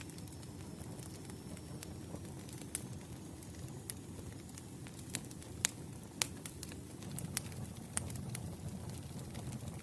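Wood campfire burning: a steady low rumble of flames with irregular sharp crackles and pops from the burning logs, a few louder pops in the second half.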